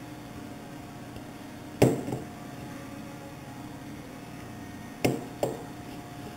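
Sharp knocks on something hard: one about two seconds in, then two in quick succession about five seconds in, over a steady hum.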